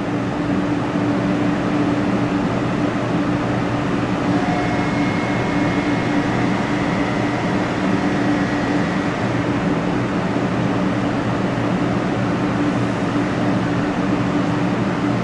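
Shinkansen train sounding a steady, even hum with a constant low drone of fixed tones, without rising or falling. A faint high tone joins it for a few seconds near the middle.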